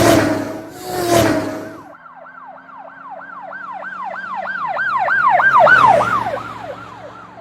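Two quick whooshing pass-bys, then a fast yelping siren over a low engine hum that approaches, is loudest about four seconds later, and fades away.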